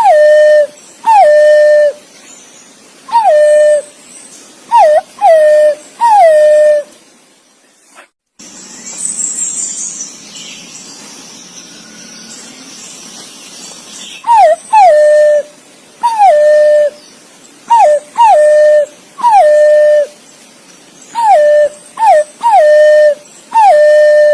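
Green pigeon (punai) calling to its companions: clear whistled notes, each sliding down and then held, repeated in runs of two or three. The calls break off suddenly for about six seconds, with a faint high twittering in the gap, then start again.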